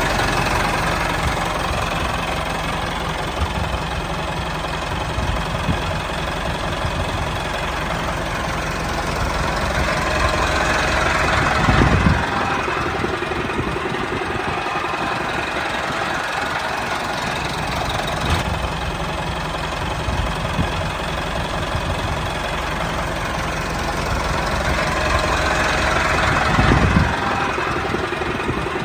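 Small engine running steadily with a chugging, knocking note, swelling louder twice, about ten seconds in and again near the end.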